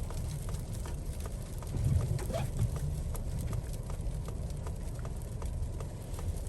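Hazard-light flasher ticking steadily, about three clicks a second, over the low rumble of a 2021 Ford Explorer ST's cabin as it creeps through deep snow.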